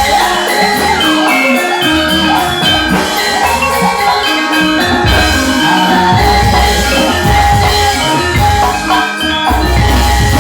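Live Javanese gamelan-style band music: tuned metal percussion ringing in steady notes over drums, with a wavering melodic line above.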